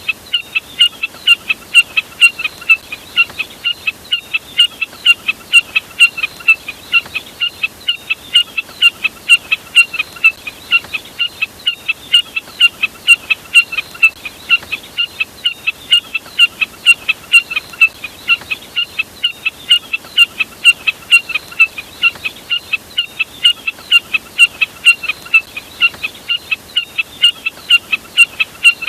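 Jack snipe calling: one short, sharp note repeated evenly about three times a second, without a break.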